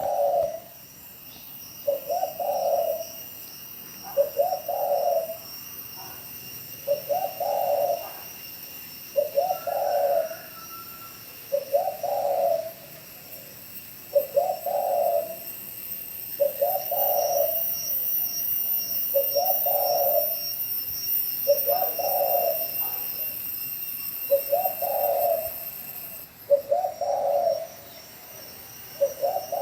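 Spotted dove cooing over and over in the rapid, insistent 'gáy thúc' style, one short cooing phrase roughly every two seconds.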